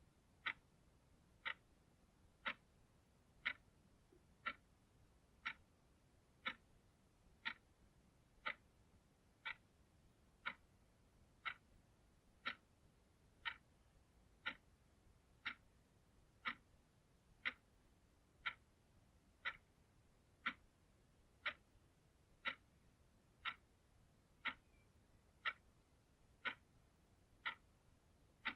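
Clock ticking steadily, one sharp tick a second, evenly spaced and all alike.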